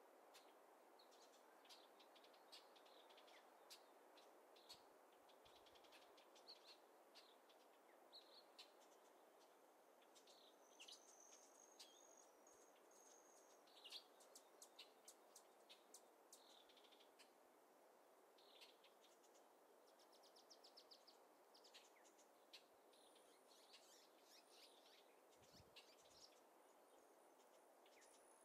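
Faint birdsong: many short high chirps and a few drawn-out high whistled calls, over a steady soft hiss.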